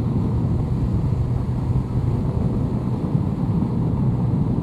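2002 Honda CBR1100XX Blackbird's inline-four engine running steadily at speed through a curve, mixed with wind and road noise.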